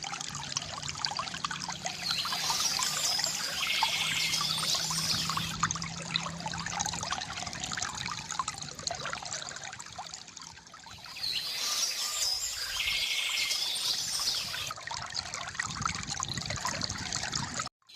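Gurgling, trickling river water with birds chirping over it in two spells, about two seconds in and again about eleven seconds in. The sound cuts out for a moment just before the end.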